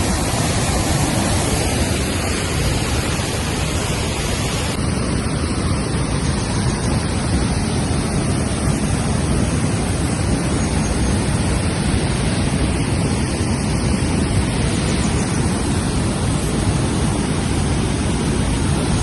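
Water falling over the New Athos waterfall, an 8.6 m man-made cascade spilling over a dam on the Psyrtskha river: a steady rush of falling water.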